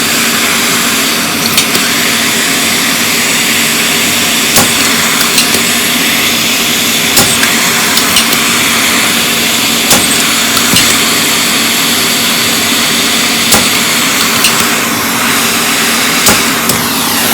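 Hot air rework station blowing steadily, a constant airflow hiss with a low hum, with a few light clicks of tools on the circuit board.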